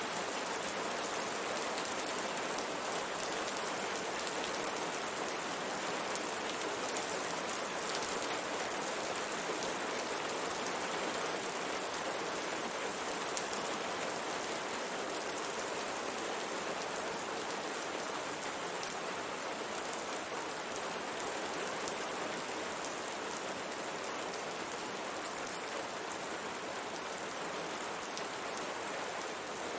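Steady rain falling on a window pane, an even hiss with scattered faint drop taps against the glass.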